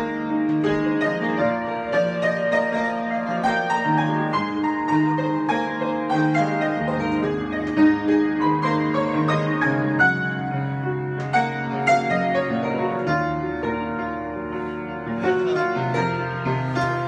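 Piano improvisation: a steady stream of struck notes over held bass notes that change every few seconds.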